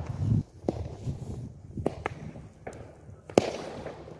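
Consumer aerial fireworks going off: a series of about four sharp bangs a second or so apart, the loudest near the end, over a low rumble.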